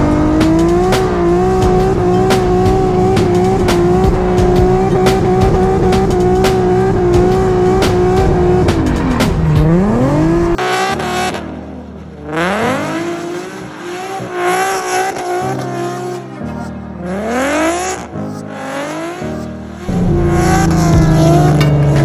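Car engine revving hard and held at high revs for several seconds while the car drifts on snow. The revs then drop and climb again several times, quieter for a while in the middle, before holding high once more near the end.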